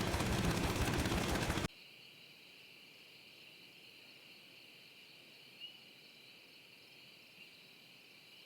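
A loud, dense wash of noise cuts off abruptly about a second and a half in. Steady, high crickets or similar insects chirring follow, with a couple of short chirps over them.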